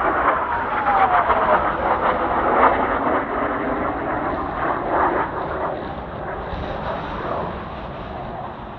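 Kawasaki T-4 jet trainers of the Blue Impulse team passing overhead: a loud jet rush with a whine that drops in pitch over the first two seconds as they go by, then fading as they fly away.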